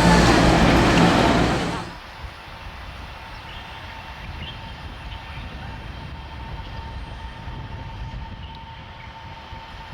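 Electric multiple unit train (EMU701/702) running loudly through the station, cut off suddenly about two seconds in. After that there is only a quieter steady station background with a faint steady hum.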